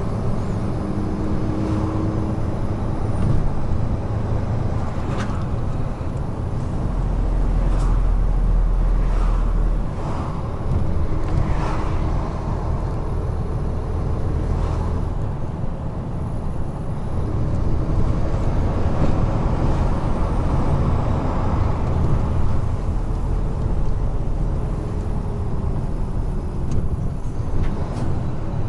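Large truck cruising on an expressway: a steady diesel engine drone and road rumble, with a heavier rumble for a few seconds and occasional brief knocks.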